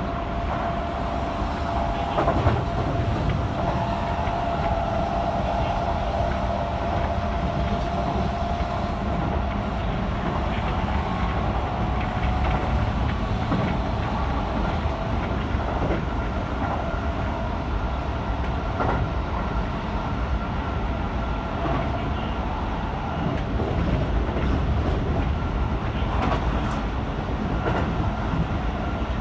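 Keihan 3000 series electric train running at speed, a steady rumble with occasional clicks as the wheels cross rail joints. A thin high whine runs through the first part and fades out about twelve seconds in.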